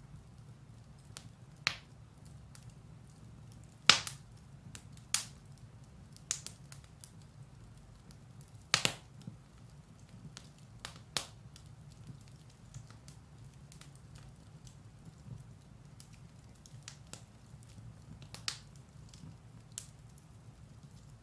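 Firewood burning in a fireplace: irregular sharp crackles and pops, a few louder snaps among many small ones, over a steady low rumble of the fire.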